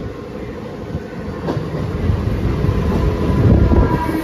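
Mumbai suburban EMU local train pulling into the platform. The rumble of its wheels on the rails grows louder as it draws alongside, with a single sharp click about a second and a half in.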